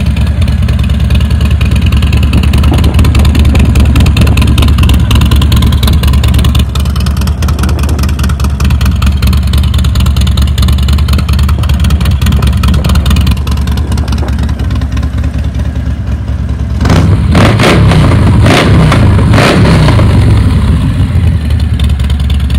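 Harley-Davidson Fat Bob's V-twin engine, bored to 117 ci with a Stage 3 tune, idling through a full 2-into-1 exhaust, then revved in a few quick blips near the end before settling back to idle.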